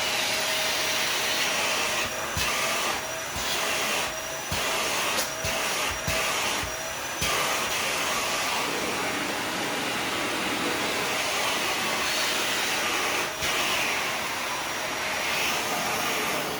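Dyson vacuum cleaner running steadily, sucking dust out of a Shark vacuum's filters, with a steady whine over the rush of air. Its sound dips briefly several times in the first half.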